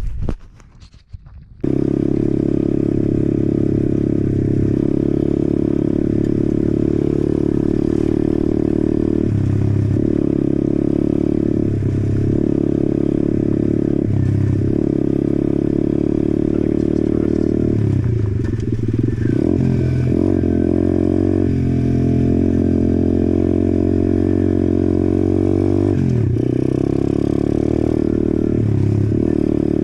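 Apollo RFZ 125cc pit bike's single-cylinder four-stroke engine running while the bike is ridden. It starts abruptly about two seconds in, and the engine note dips and climbs back several times as the throttle is eased and reopened.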